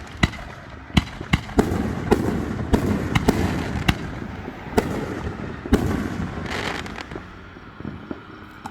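Aerial fireworks going off in quick succession. There are sharp bangs every half second to second, with crackling between them, and the bangs thin out near the end.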